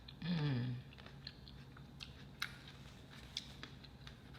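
A person eating a small sweet tomato: a short "mmm" falling in pitch near the start, then soft scattered clicks and squelches of chewing.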